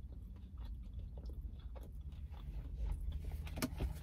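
Close-up chewing of a McDonald's chicken nugget with the mouth closed: soft, wet mouth sounds over a steady low hum. A couple of sharp clicks come near the end.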